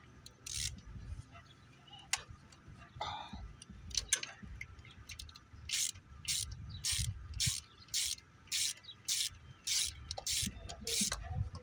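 3/8-inch drive socket ratchet being worked back and forth on a bolt, a few scattered clicks at first, then steady ratcheting strokes about twice a second through the second half.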